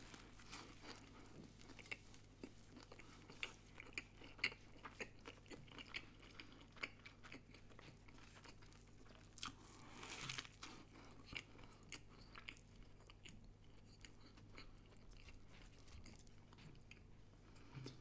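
Close-up eating of a cheeseburger: quiet, scattered crunches and wet chewing clicks, with a louder bite about ten seconds in.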